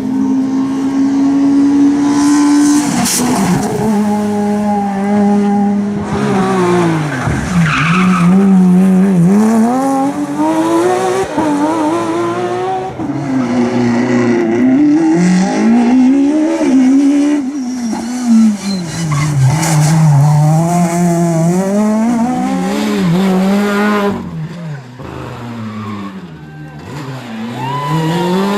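Rally car engines at full stage pace, the pitch climbing and dropping over and over through hard acceleration, gear changes and lifts, quieter for a few seconds near the end.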